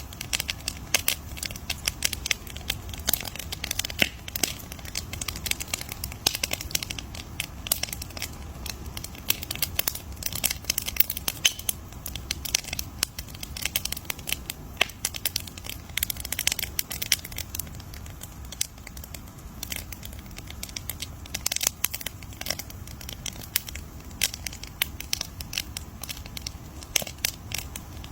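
Campfire crackling: a continuous stream of irregular sharp pops and snaps from burning wood over a low steady rumble of the flames.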